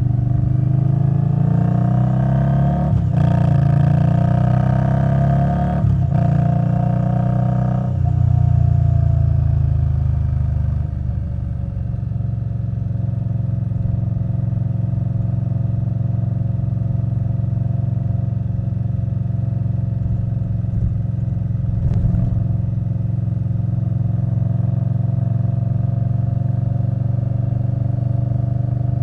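Indian Scout Bobber Twenty's V-twin engine through a Vance & Hines Twin Slash exhaust, pulling through several upshifts in the first eight seconds or so, its pitch climbing and dropping with each gear. The motorcycle then settles into a steady cruise, with one brief knock about three-quarters of the way through.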